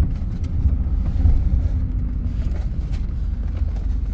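Car road noise heard from inside the cabin: a steady low rumble from the tyres and engine while driving, with wind coming through a partly open window.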